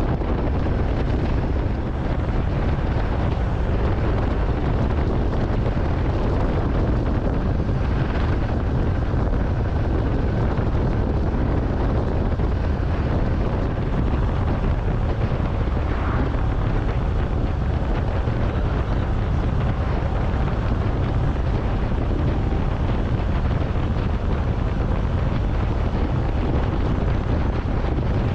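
Steady wind buffeting the microphone on a moving motorcycle, a dense low rumble that stays even throughout.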